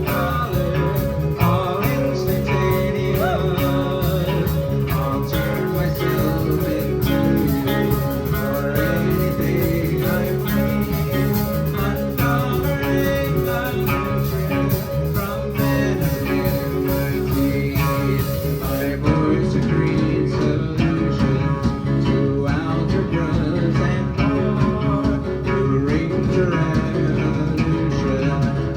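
A live band playing an instrumental passage led by guitar, with a full, steady sound; a bright high wash drops out about two-thirds of the way through.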